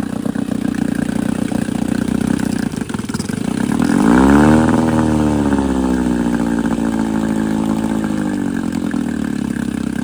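1964 Evinrude 9.5 hp outboard motor running, revved up sharply about four seconds in and then easing slowly back down to idle. It is running properly now that sediment has been cleared from its fuel filter bowl and a loose mixture adjustment has been fixed.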